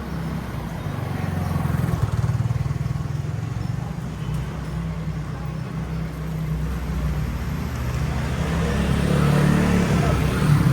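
Street traffic: engines of passing cars and motor vehicles running as a continuous low rumble, growing louder near the end.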